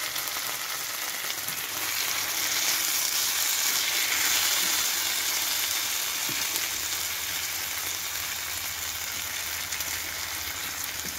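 Onions and red pepper frying in curry sauce in a steel frying pan, sizzling steadily while being stirred with a wooden spatula. The sizzle swells about two seconds in and eases slightly toward the end.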